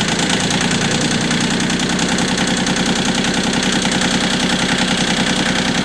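Kioti CK20 compact tractor's three-cylinder diesel engine running steadily at a slightly raised idle, warming up just after a cold start, with the diesel's quick, even knock.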